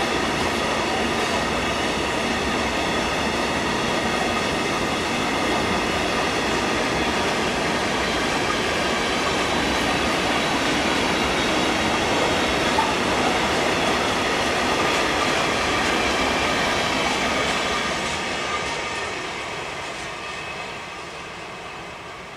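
Freight train of grain hopper wagons rolling past, steady wheel-on-rail noise with a faint high squeal. It fades away over the last few seconds as the train moves off.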